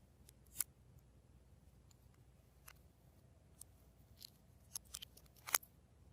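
Glossy slime being worked by hand: scattered, faint sticky clicks and pops at irregular intervals, the loudest about half a second in and near the end.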